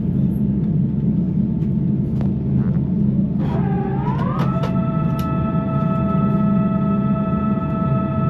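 Steady low rumble of an airliner cabin on the ground. About three and a half seconds in, a tone glides upward for about a second and then holds as a steady sustained tone over the rumble.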